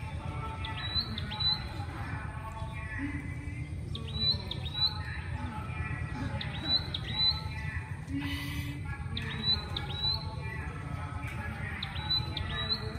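Small birds chirping over and over, short high calls coming every second or two, over a steady low rumble of city traffic.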